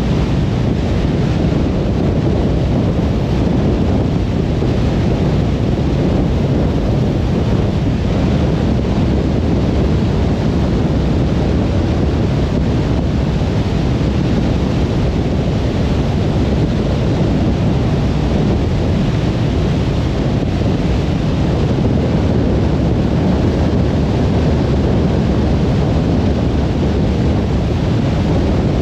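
Car driving at motorway speed: steady tyre and road noise with wind rush, a low, even rumble that does not change.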